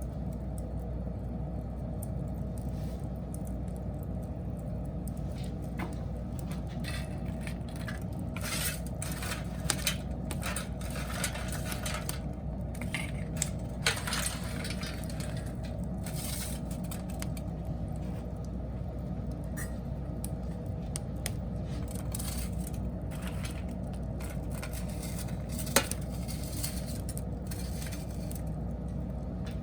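Wood fire crackling, with scattered sharp pops, loudest a few times near the middle and once near the end, over a steady low rumble.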